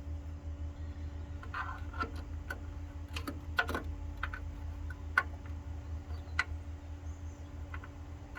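Scattered light clicks and taps, like metal parts being handled and fitted, over a steady low hum; no welding arc is heard.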